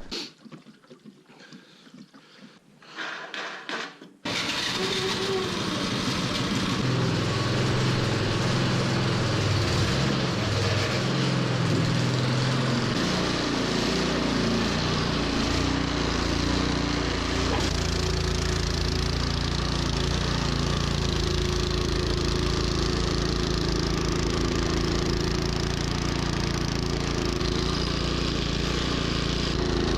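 Troy-Bilt snowblower engine running. It comes in suddenly about four seconds in, its pitch wavers for several seconds, then it settles into a steady run.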